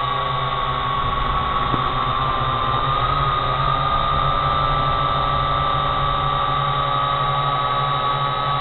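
Drone motors and propellers running steadily in flight, a high whine that drifts slightly up in pitch a few seconds in.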